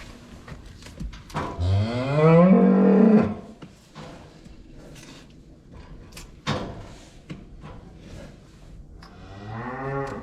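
Cow mooing in a calving barn: one long, loud moo about a second and a half in, then a second, quieter moo starting near the end.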